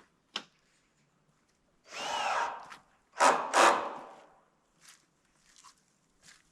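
Steel roofing panel scraping as it is shifted into position: a sharp click, then a scrape about a second long, then two louder scrapes in quick succession, followed by faint ticks.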